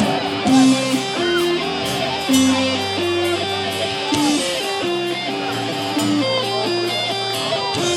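Live rock band playing: electric guitar over bass guitar and drums, with cymbals ticking steadily.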